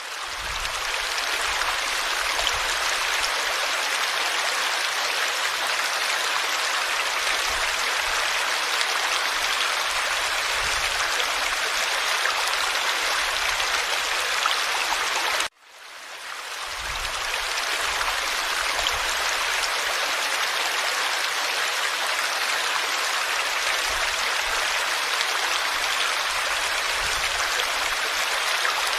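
Forest stream flowing, a steady, dense rush and babble of water. About halfway through, the sound cuts out abruptly for a moment and fades back in.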